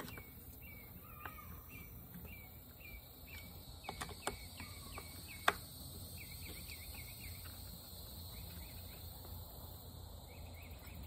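A small bird chirping over and over in short high notes, with a few sharp metal clicks from a screwdriver tightening the ignition module screws on a chainsaw, about four and five and a half seconds in.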